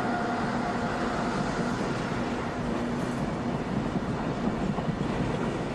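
ICE train running along station tracks: a steady rumble of wheels on rails, with a faint steady whine that fades out about halfway through.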